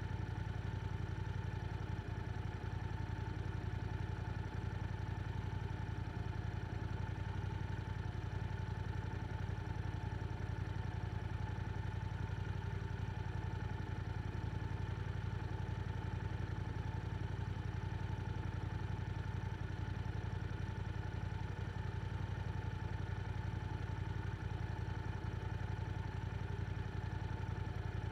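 Yamaha R7's 689 cc parallel-twin engine running through an Akrapovic exhaust, held at a steady engine speed with no revving.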